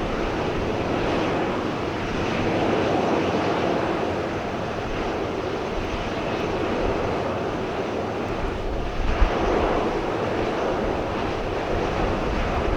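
Boeing 737-800 jet engines running with a steady roar, buffeted by gusts of wind on the microphone, one stronger gust about two-thirds of the way through.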